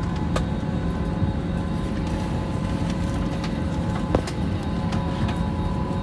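Steady airliner cabin noise inside a Boeing 777-300ER: a low, even rumble with a faint steady whine over it and a few light clicks.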